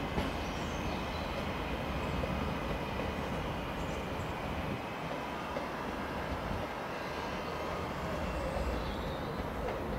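Passenger train on the line at a station, a steady running noise with a faint high whine over it.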